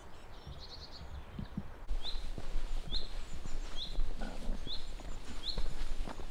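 A bird repeats a short, high chirp about once a second, over wind rumbling on the microphone that picks up about two seconds in. A quicker run of fainter chirps comes first.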